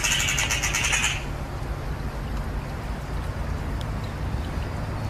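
A bird's rapid, chattering call lasting about a second at the start, over a steady low rumble.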